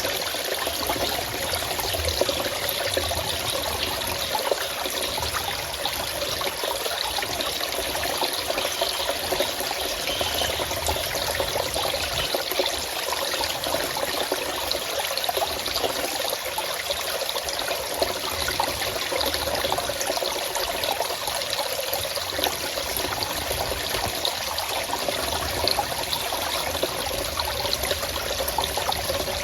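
Forest stream running, a steady rush and trickle of flowing water.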